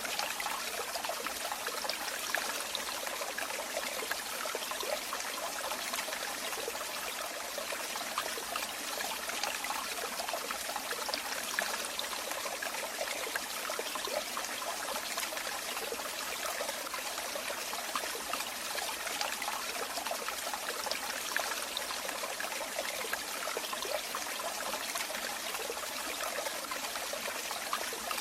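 Running water trickling and splashing steadily, a stream or small fall of water, with no let-up.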